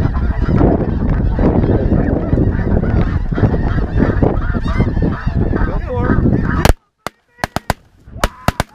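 A large flock of snow geese honking, a dense, loud clamor of many overlapping calls. It cuts off abruptly near the end, and a few sharp cracks and a single goose honk follow.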